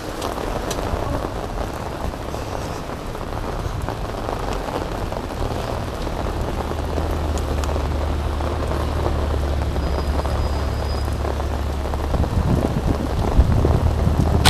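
Steady rain falling and pattering on surfaces, with a low steady rumble that builds from about five seconds in.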